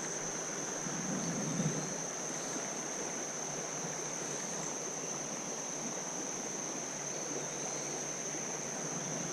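Creek water running and washing over rocks in a steady rush, with a continuous high-pitched insect drone, typical of crickets, running over it.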